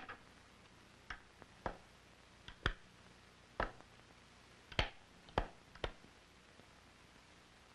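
About eight sharp, light taps at uneven intervals, hand tools knocking against a wooden rifle stock as a patch-box spring is set into the butt.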